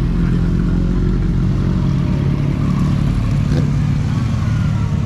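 Motorcycle engine running steadily and loudly, its pitch shifting slightly, with a brief click about three and a half seconds in.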